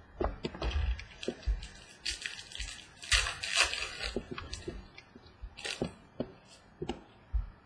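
Baseball trading cards being handled and shuffled: irregular light clicks and taps with short rustling scrapes as cards slide over one another.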